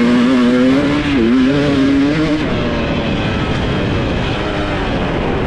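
Dirt bike engine pulling away under throttle, its pitch rising and dipping. About two and a half seconds in, the steady note gives way to a rougher, choppier engine sound.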